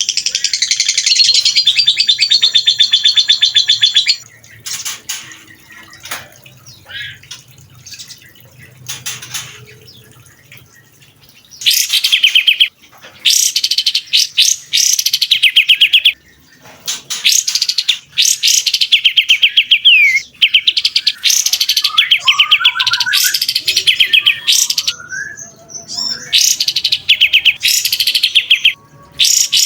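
Songbird singing rapid, machine-gun-like trill phrases (the 'tembakan' style), each about a second long and falling in pitch, repeated with short gaps; a dense trill opens, followed by several seconds of softer scattered calls before the run of phrases.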